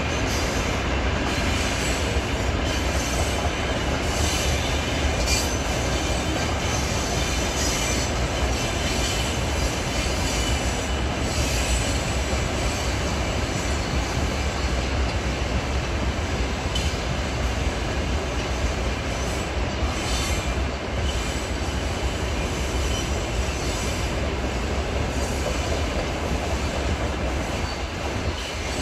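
Freight train passing: a steady rumble and clatter of wagons rolling on the rails, with high metallic wheel squeal at times.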